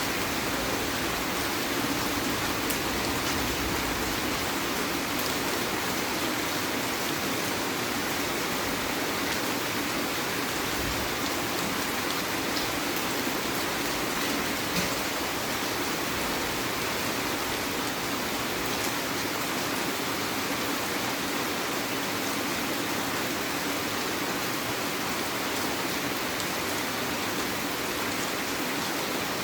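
Heavy rain falling steadily, with scattered sharp ticks of single drops through the steady hiss.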